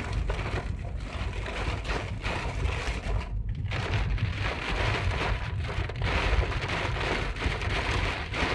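Heavy thunderstorm rain, an even hiss with a steady low rumble underneath.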